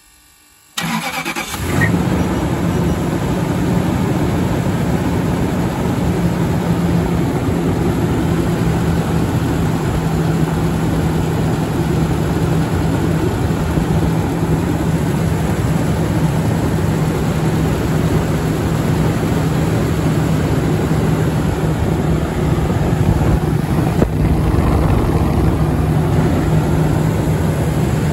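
Toyota Land Cruiser 200 engine cranking and catching about a second in, then idling steadily with a constant low hum. The start-up noise the owner is checking for is a squeak from the viscous fan clutch.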